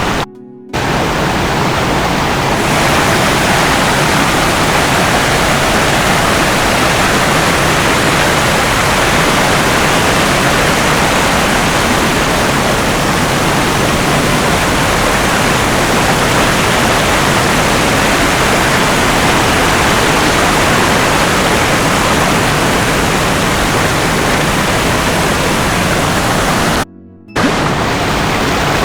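Waterfall water rushing in a loud, steady roar close to the microphone. It drops out briefly twice, once about half a second in and once near the end.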